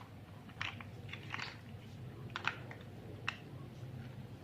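Faint, scattered clicks of plastic Lego pieces being handled and pressed together, about five over a few seconds.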